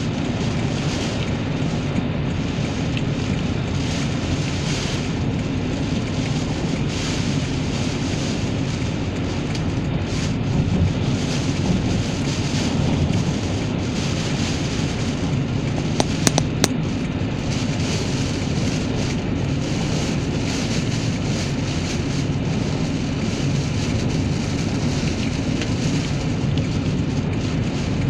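Typhoon wind and rain: a steady, loud rushing noise with a heavy low rumble. A few sharp clicks come about sixteen seconds in.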